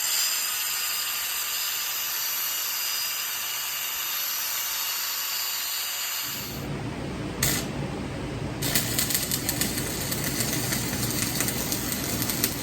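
A power tool working on tin siding panels: a steady run with a high whine, then from about six seconds in a harsher, louder run with rapid rattling.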